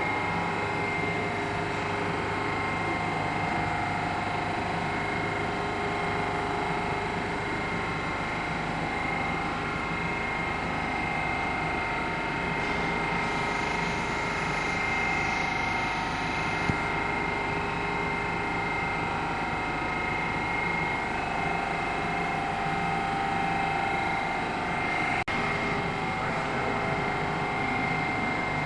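Rusich 81-740/741 metro train running, a steady mechanical noise with a high, even whine over it. There is one short click about 25 seconds in.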